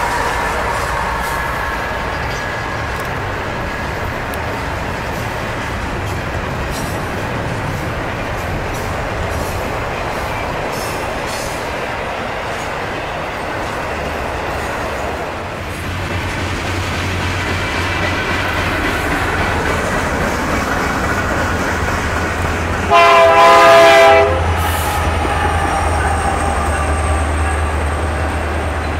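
Double-stack intermodal container train rolling past, its well cars giving a steady rail noise with wheel clatter and thin squealing tones at times. Near the end a single train-horn blast about a second long cuts through, the loudest sound.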